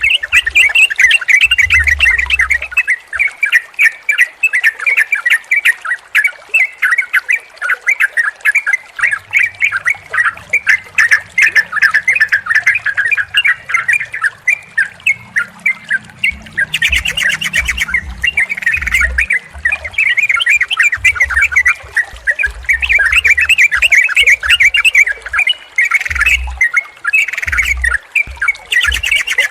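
Several yellow-vented bulbuls (cucak trucuk) calling in a dense, continuous chatter of quick bubbly notes, with a brief harsh rattle about halfway through.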